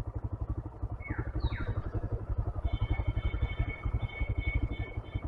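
Motorcycle engine idling with an even, rapid low pulse. Two short falling high chirps come about a second in, and thin high whistling tones come and go through the second half.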